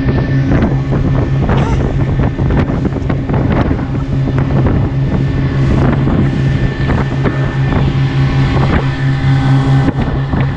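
Motorboat engine running with a steady drone, over rushing and splashing water.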